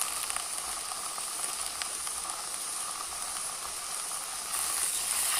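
Young leaf shoots sizzling as they cook, a steady hiss that grows louder near the end.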